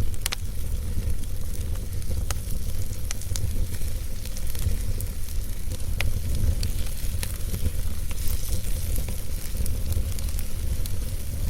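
Wood fire burning in a fireplace: a steady low rumble of flames with scattered sharp crackles and pops from the burning logs. The strongest pops come about a third of a second in and about six seconds in.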